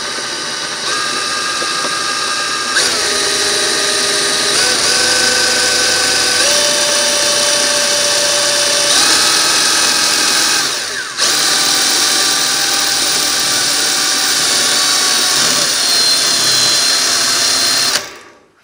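Cordless drill spinning the shaft of an opened Simson M500 engine by a nut, the gearbox turning with it, the steady whine stepping up and down in pitch a few times and dipping briefly about eleven seconds in before stopping near the end. With the case open the gearbox sounds normal, with no scratching to be heard.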